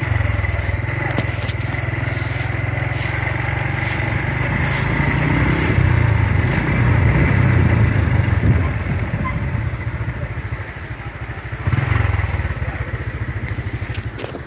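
Motorcycle engine running while ridden at low speed, its rumble rising in the middle stretch and again briefly about twelve seconds in.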